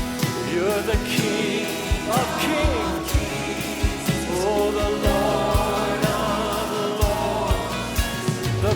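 Live worship band music with a singer's voice gliding over sustained chords and a steady drum beat.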